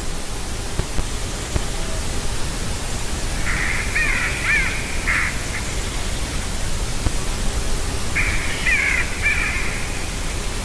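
Distant bird calls in two bouts of quick, gliding, chattering notes, a few seconds apart, which the recordist thinks may be eagles. A steady hiss runs underneath.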